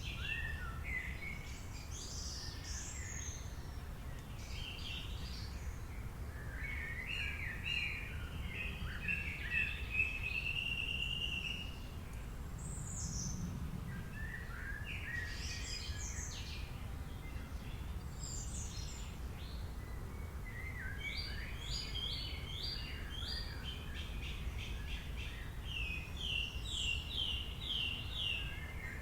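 Songbirds singing in a forest, phrase after phrase every few seconds, some of them quick runs of repeated notes, over a steady low background rumble.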